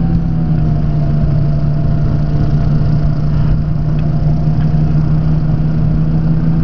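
Rotax engine of a Quad City Challenger ultralight running steadily in flight, a loud even drone with its pitch settling slightly lower in the first second or so, over a rush of air noise.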